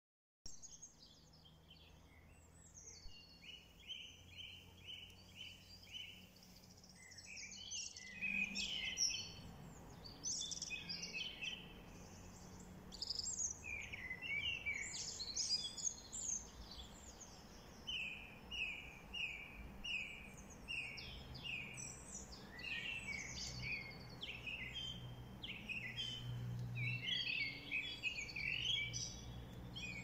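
Several songbirds singing. One repeats a short note in even runs of about two or three a second, and varied twittering phrases join about eight seconds in, over a faint low steady hum.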